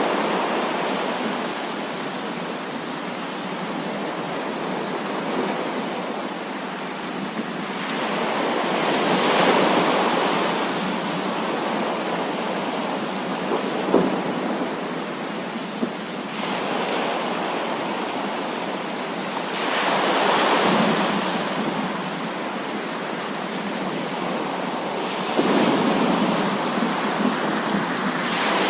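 Heavy rain pouring steadily, with thunder rolling in three long swells, one near the start, one in the middle and one near the end. There are a couple of sharp cracks about halfway through.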